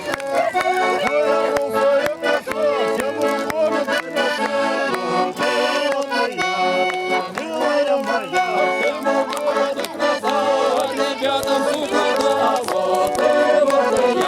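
Accordion playing a folk tune, many notes sounding together, with sharp clicks running through it.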